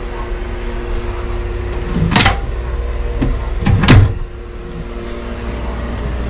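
A steady low mechanical hum with a few held tones, broken by two sudden knocks, about two seconds in and just before four seconds.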